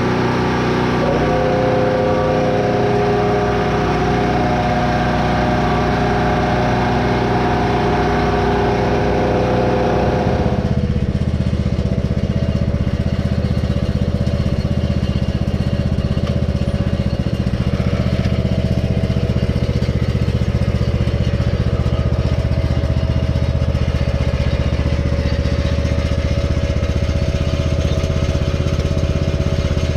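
Portable generator's small engine running steadily. About ten seconds in, the sound changes suddenly: the higher noise drops away and a deeper, steady hum carries on.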